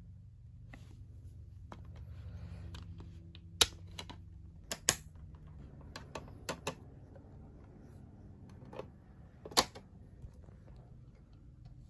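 Scattered sharp clicks and taps over a low steady hum, the two loudest clicks about three and a half seconds and about nine and a half seconds in.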